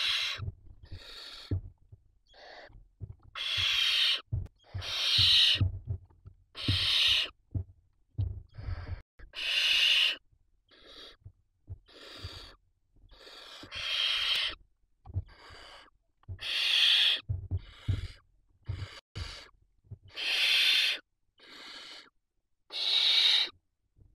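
Barn owl chicks giving their harsh hissing begging calls in a steady series, each about a second long and repeating every second or two, with low thuds from movement in the nest box.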